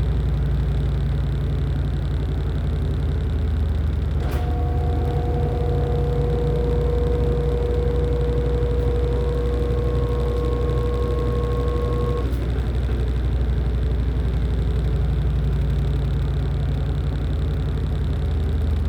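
LG top-loading washing machine running with a steady low hum. About four seconds in a click starts a steady whine that stops about eight seconds later.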